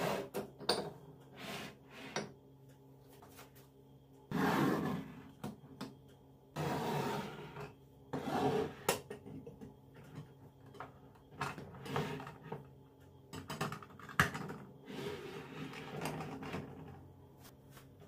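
Kitchen handling sounds: dishes and containers knocked and set down, with several bursts of rubbing or wiping a few seconds long.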